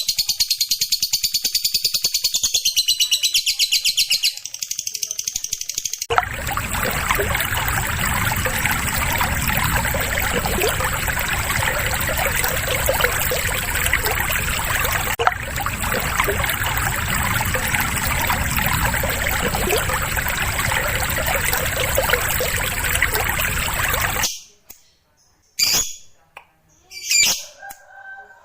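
Lovebird song: a long, rapid, high chattering trill (the 'ngekek') for about six seconds, then a dense, continuous mass of chatter with a steady high whine. About four seconds before the end this cuts off, leaving a few short separate calls.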